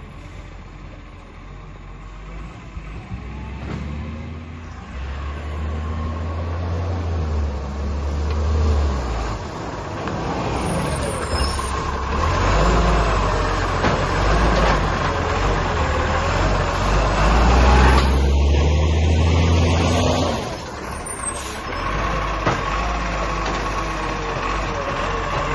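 Garbage truck's engine running close by, swelling louder in stretches and easing back, with a faint steady whine throughout.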